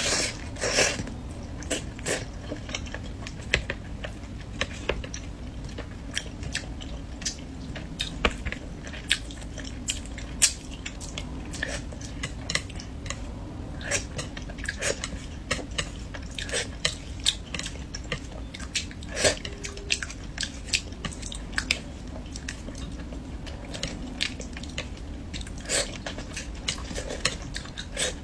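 Close-miked chewing and biting from a person eating a meal of spicy fish curry and glass noodles, with many short, irregular clicks of the mouth and food over a steady low hum.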